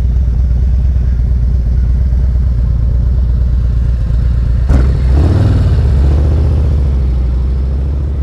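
Motorcycle engine running steadily while riding. About halfway through there is a short clunk, then the engine pitch rises for a couple of seconds as the bike accelerates.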